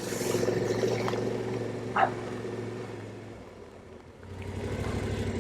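Yamaha Ténéré 700's parallel-twin engine running at low revs. It dies away about three seconds in and picks up again about a second later, over a light wet hiss. A short squeak about two seconds in.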